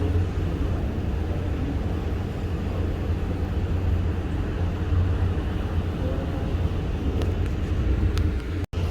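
Steady low rumbling noise of strong wind buffeting the microphone aboard a ship at sea. It cuts out for an instant near the end.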